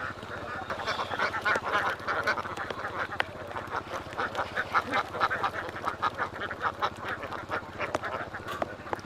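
A large flock of ducks quacking without pause, many short calls overlapping.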